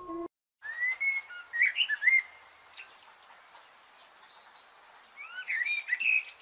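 Birds chirping and whistling over a steady outdoor hiss, in two bursts of calls: one starting about a second in and another near the end.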